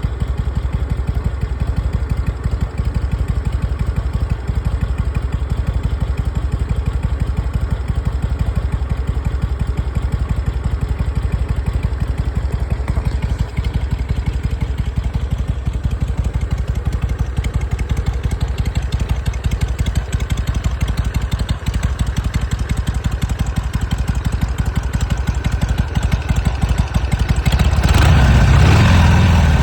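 Harley-Davidson Sportster 883's air-cooled V-twin idling steadily, then revved near the end. It runs well, with a new carburetor insulator and battery fitted.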